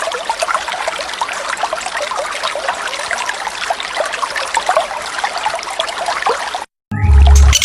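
Recorded waterfall water, splashing and trickling steadily. Near the end the sound cuts out for a moment, then a loud, deep-toned sound lasts about half a second.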